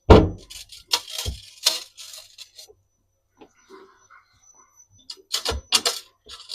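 Hard household objects clattering and knocking as they are handled and set down: a loud knock right at the start, a few more about one to two seconds in, and another quick run of clatters near the end.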